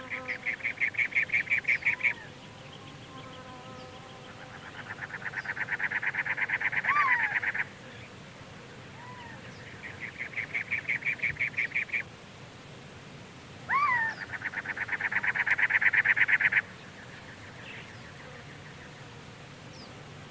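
Birds calling: four rapid, pulsed trills of two to three seconds each, with a few short slurred chirps in between.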